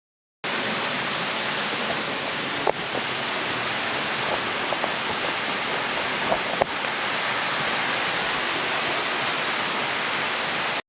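Waterfall: a steady rush of falling water that starts abruptly, with two faint clicks in it.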